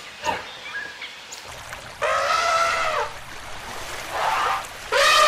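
Goat bleating: one call of about a second near the middle, a short fainter one later, and another starting just before the end.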